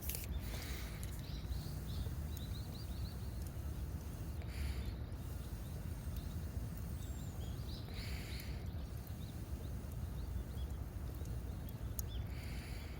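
Outdoor riverbank ambience: a steady low rush under many small bird chirps, with a brighter call about every four seconds.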